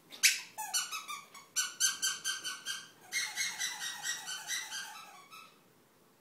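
Squeaky sausage-shaped dog toy squeaking over and over as a dog chews it: a quick series of short, high squeaks for about five seconds, then it stops.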